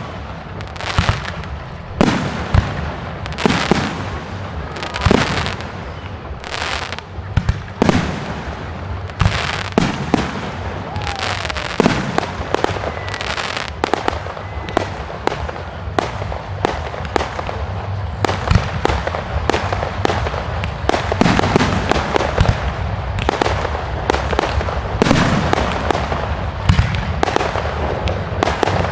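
Fireworks display: a continuous run of sharp bangs and crackling bursts, a bang every second or so at first, building into a denser, louder barrage over the last ten seconds.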